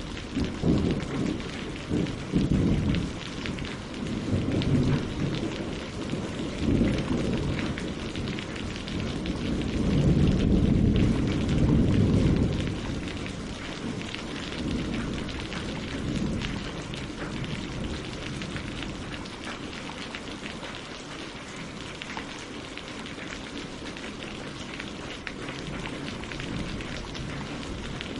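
Steady rain falling on leaves and lake water, with a low rolling rumble of thunder that swells to its loudest about ten to twelve seconds in and then dies away.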